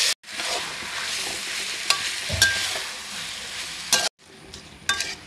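Marinated chicken sizzling as it fries in hot rice bran oil in an aluminium pot, with a metal spoon clinking against the pot several times as it is stirred. The sizzle cuts out twice, and after the second break, about four seconds in, it is quieter.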